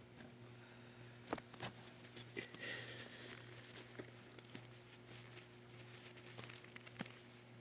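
Faint scattered taps, clicks and rustling as a cat scuffles and plays, over a steady low hum; the loudest taps come about one and a half seconds in and about seven seconds in.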